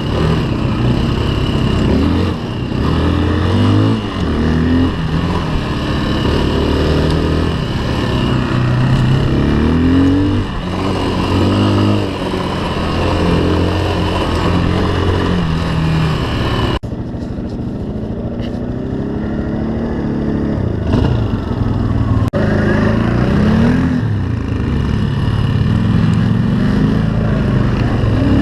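Engine of an off-road motorcycle or quad under way. Its pitch climbs and drops back again and again as it revs and shifts, over a steady rush of wind. The sound changes abruptly twice in the second half.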